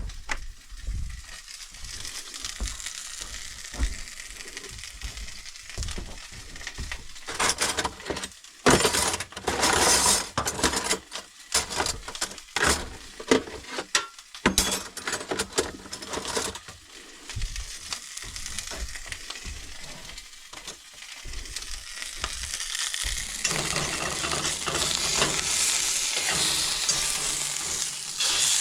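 Steak sizzling as it fries in a pan, with sharp crackles throughout. A loud run of clatter and scraping comes in the middle, and a steadier hiss swells near the end.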